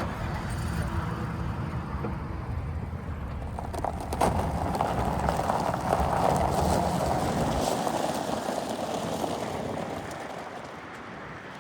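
Pickup truck engine running with a steady low rumble that cuts off suddenly about eight seconds in, leaving a lighter hiss.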